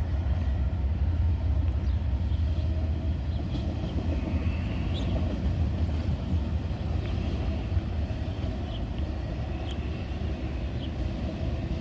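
Eastbound Norfolk Southern freight train rolling past, a steady low rumble.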